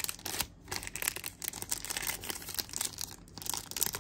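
Handling noise: irregular crinkling and rustling with many small clicks, as items are handled close to the microphone.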